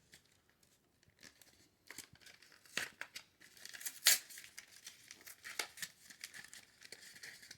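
Small rifle parts and their plastic packaging being handled on a workbench: irregular rustling, scraping and light clicks, with two sharper clicks about three and four seconds in.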